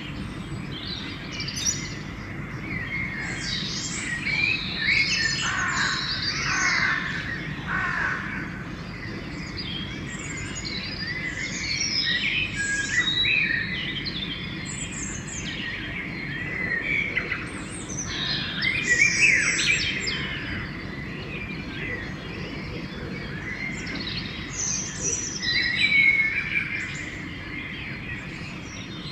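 Pre-dawn chorus of many songbirds singing and calling over one another, in quick overlapping chirps, trills and short phrases, over a steady low background rumble.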